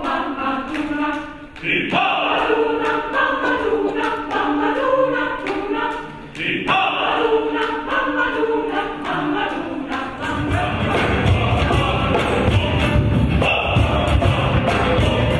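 Several voices singing together, breaking off briefly twice. About ten seconds in, fuller, louder music with a heavy low end takes over.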